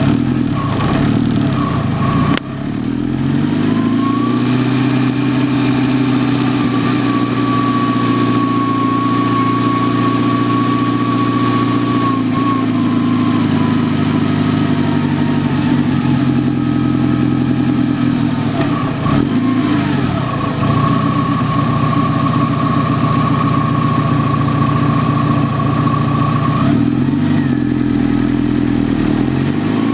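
Turbocharged 16-valve engine of a Fiat barchetta, heard from inside the engine bay, running steadily under load. The revs drop and climb again a few seconds in, once more about two-thirds of the way through, and rise near the end.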